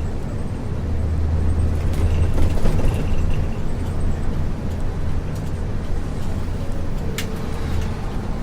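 Isuzu U-LV224N city bus's 6QB2 diesel engine running under way, heard from inside the passenger cabin: a steady low drone, heaviest for the first couple of seconds and then easing off. A single sharp click about seven seconds in.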